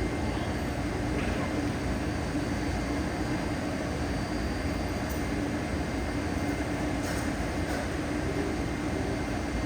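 Steady hum and rumble of a Taipei Metro train at the station platform, even throughout, with a few faint clicks about five and seven seconds in.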